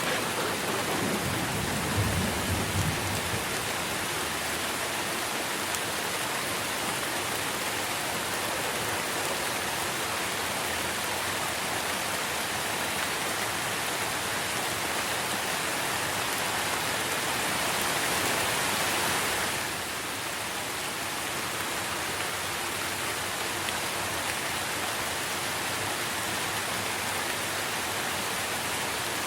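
Steady rain falling on trees and leaves, an even hiss. A short low rumble of distant thunder comes about two seconds in, and the rain grows louder for a few seconds before dropping back suddenly about two-thirds of the way through.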